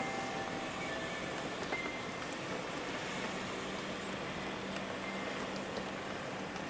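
Steady rain falling, an even hiss with a few faint, brief ringing tones over it.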